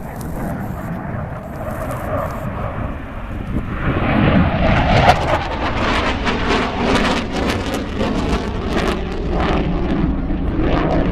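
Jet noise from a Panavia Tornado GR4's twin RB199 turbofans, growing louder about four seconds in and staying loud with a crackling edge.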